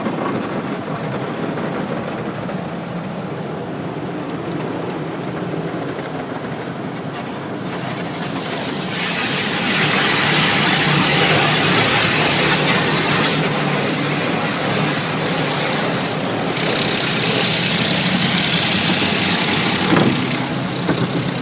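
Automated tunnel car wash equipment heard from inside the car: a steady rumble and hum, then from about eight seconds in a loud hissing rush of spray or air against the car, easing for a few seconds in the middle before coming back.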